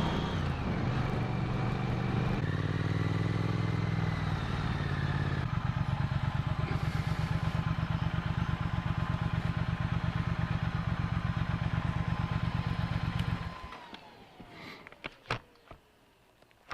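Motorcycle engine running at low road speed with a steady low pulsing beat, its pitch shifting a couple of times early on, then stopping abruptly about 13.5 seconds in; a few sharp clicks follow in the quiet.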